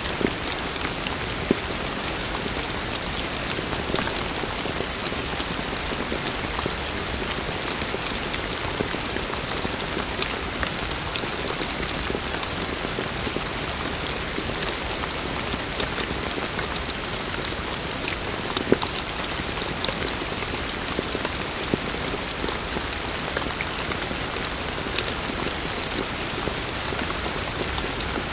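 Heavy rain falling steadily as a dense, even hiss, with scattered sharper ticks of individual drops hitting nearby.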